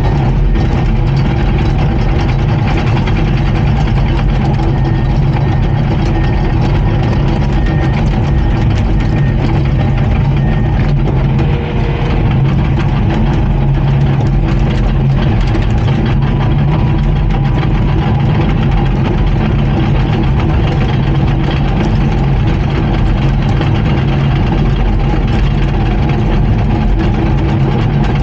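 Diesel engine of a Komatsu D39PX crawler bulldozer running at a steady speed, loud and unchanging throughout.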